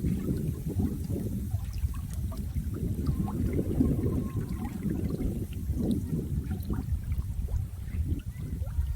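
Running water with a deep, churning gurgle that swells and eases irregularly, with faint droplet-like ticks above it.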